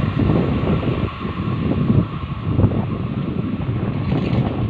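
Rumble of a long electric double-stack container freight train running away into the distance, mixed with gusty wind buffeting the microphone.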